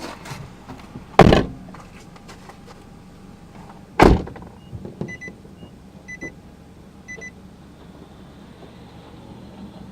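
Car door shut twice, a firm thump about a second in and another about four seconds in, followed by three short electronic beeps about a second apart.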